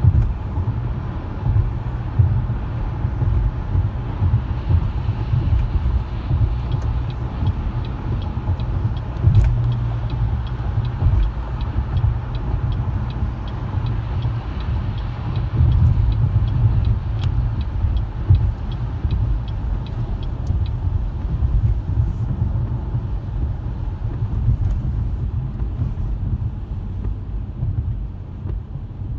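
Car driving: a steady low rumble of engine and road noise. Through the middle stretch there is a run of faint, evenly spaced ticks.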